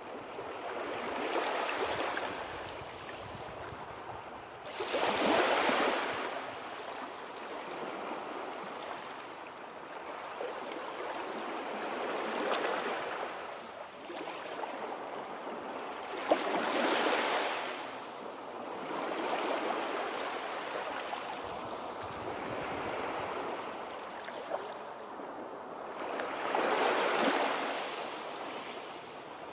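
Sea waves breaking and washing on the shore, swelling and fading over a few seconds each, with the biggest surges about 5, 17 and 27 seconds in.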